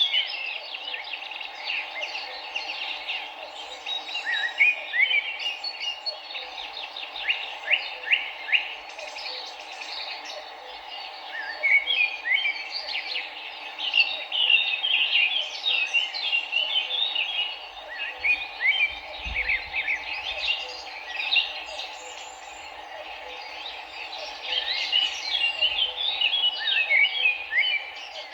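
Several songbirds chirping and trilling in quick, repeated phrases over the steady rush of a flowing river.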